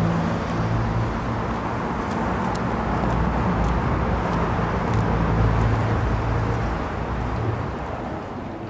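A motor vehicle running steadily with low engine hum and road noise, fading off near the end.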